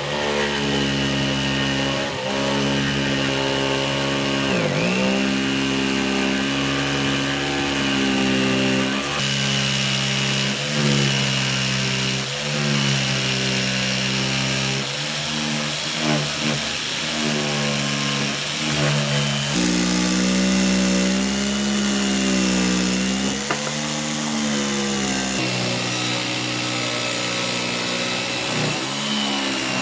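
Electric woodworking power tool motor running. Its pitch dips briefly several times as the tool is loaded by the cut, with a steady high whine throughout.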